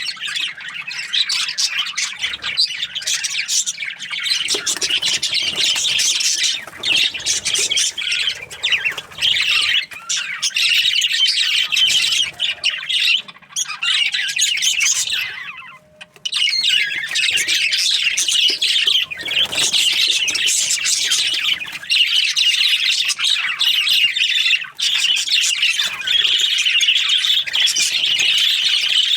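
A flock of budgerigars chattering and chirping without a break, with a short lull about halfway through.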